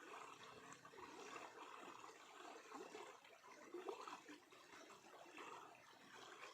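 Faint flowing stream water, gurgling and trickling steadily.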